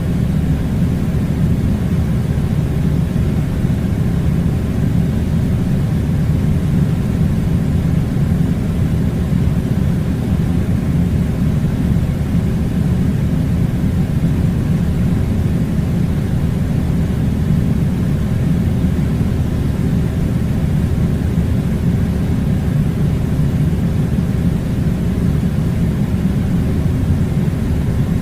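Air conditioner blowing: a steady, unchanging low rumble of airflow with a faint hum, with no change in level.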